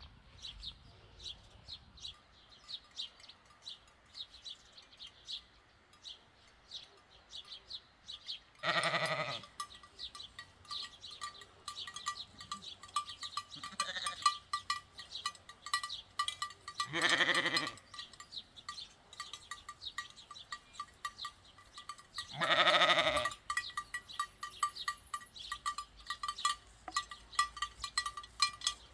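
Sheep bleating three times, each call about a second long, over the steady clanking of a sheep bell.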